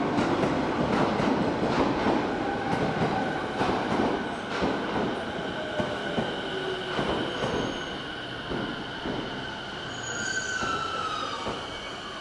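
JR East E217-series Yokosuka Line electric train pulling into the platform and slowing. Its wheels clack over the rail joints, the clacks spreading further apart and fading, with a high whine under the cars, and brakes squealing with a falling pitch near the end.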